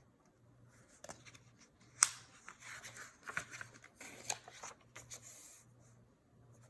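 Faint paper rustling and handling as a book page is turned, with a sharp click about two seconds in.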